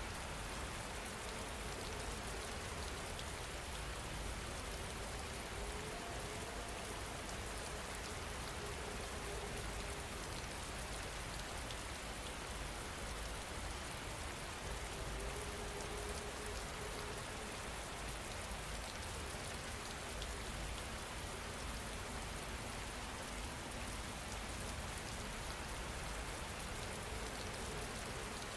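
Steady rain falling, an even patter that does not change.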